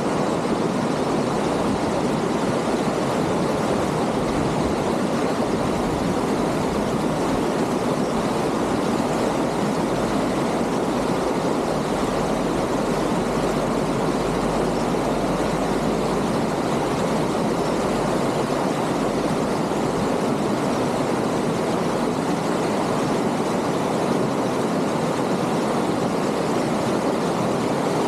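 Water of a rocky stream rushing steadily over and between stones.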